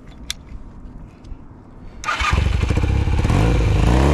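1983 Honda Nighthawk motorcycle engine starting: a couple of faint clicks, then about two seconds in the engine fires at once and settles into a steady run.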